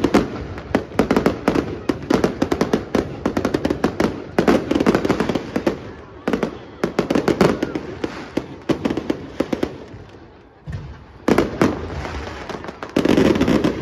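Aerial fireworks going off in a dense barrage: rapid crackling and bangs, many reports a second. The barrage eases briefly about ten seconds in, then picks up again.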